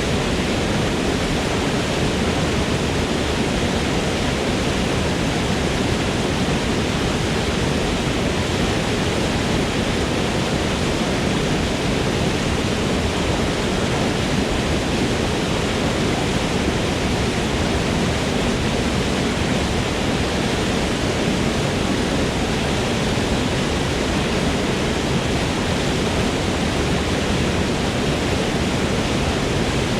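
Waterfall in a forest, water pouring and splashing in a steady, unbroken rush.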